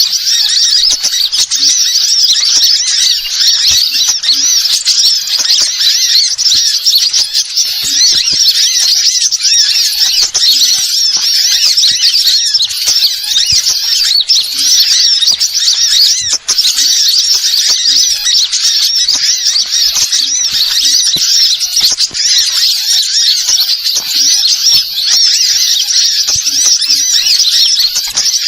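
Small birds chirping and twittering in a dense, unbroken, high-pitched chatter, a lure-bird call recording (suara pikat) made to draw in wild birds.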